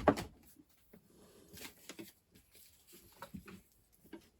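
Faint scattered clicks and light knocks of a mains plug and cable being handled and pushed into a wall socket, with a sharper knock right at the start.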